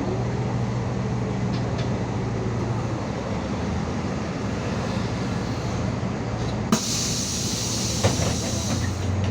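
MAZ 216 city bus heard from inside while under way: a steady engine drone with road rumble. About two-thirds of the way in, a sharp click is followed by a hiss of compressed air lasting about two and a half seconds.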